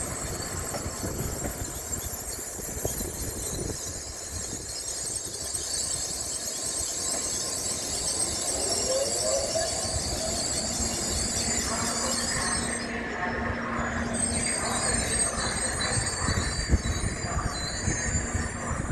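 Tokaido Shinkansen train at the platform, with a high-pitched squeal throughout. A short rising whine comes about nine seconds in, and a steady low hum follows for several seconds.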